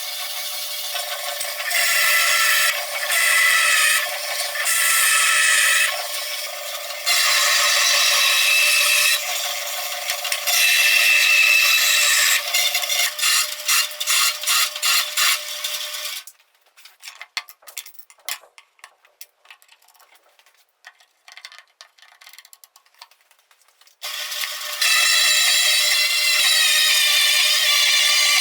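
Homemade band saw driven by a washing machine motor running with a steady whine, louder in stretches of a second or two. It stops about sixteen seconds in, leaving only scattered clicks, and starts again about eight seconds later.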